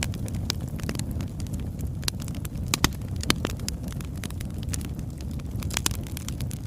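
Wood fire burning with a steady low rumble, logs crackling in quick irregular snaps, with a few louder pops about three seconds in and again near the end.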